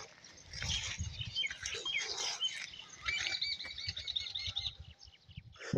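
Small birds chirping, with a quick trill of repeated notes in the middle, over a low uneven rumble.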